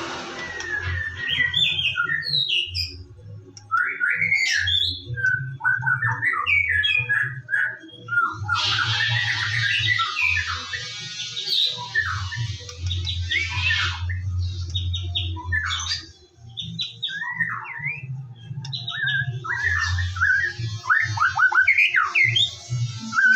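White-rumped shama (murai batu) singing a long, varied song of quick whistled notes gliding up and down, broken by a harsh rasping chatter lasting several seconds from about a third of the way in and again near the end.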